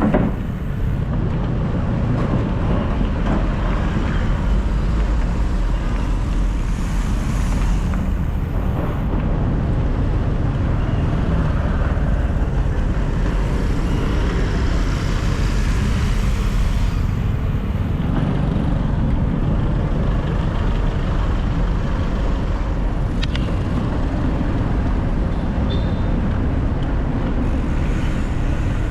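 City street traffic heard from a moving bicycle: a steady mix of passing cars and motorcycles over a constant low rumble.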